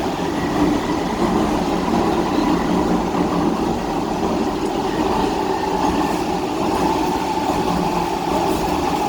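Docklands Light Railway train running between stations, heard from inside the carriage: steady running rumble with a faint steady whine.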